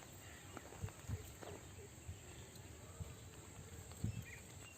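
Faint, steady chirring of insects such as crickets, with a few soft low knocks.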